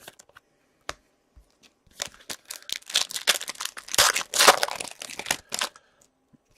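A 2017-18 Upper Deck Series 1 hockey card pack wrapper being torn open and crinkled: a few light clicks, then about two seconds in a burst of crackling rustle that lasts some three and a half seconds.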